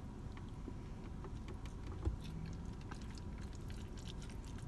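Quiet chewing and mouth sounds of a person eating, with faint clicks of a plastic fork against a plastic takeout bowl and a soft bump about two seconds in.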